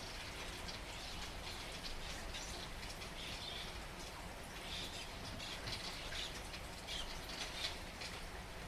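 Steady rain falling, with brighter bursts of patter coming and going.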